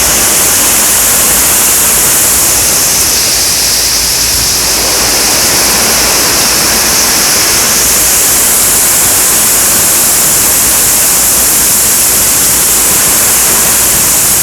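Heavy rain pouring down in a severe thunderstorm, a loud, steady hiss.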